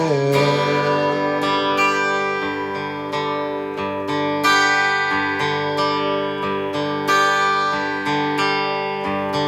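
Acoustic guitar playing an instrumental break between sung verses, plucked notes and strums ringing on.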